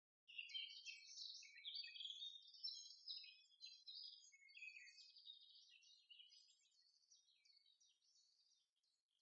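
Faint bird chirping and twittering, a rapid run of short high calls that fades away toward the end.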